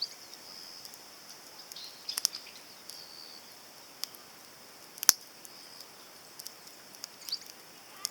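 Small wood fire crackling in a compact titanium fire grill: scattered sharp pops and snaps, two louder ones about two and five seconds in, over a steady high-pitched hiss.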